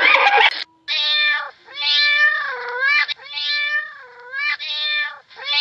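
Domestic cat meowing four times in a row, each meow a drawn-out call that dips and rises in pitch. It follows a rougher, different animal call that cuts off about half a second in.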